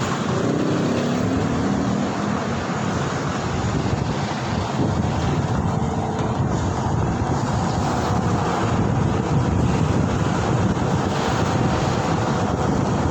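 Steady wind buffeting the microphone over road and vehicle noise while riding, heaviest in the low end, with a faint steady tone in the first couple of seconds.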